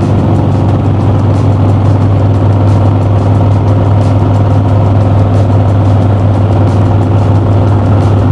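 Harley-Davidson V-twin motorcycle running at a steady cruise, engine and road noise holding even, with no revving or shifting.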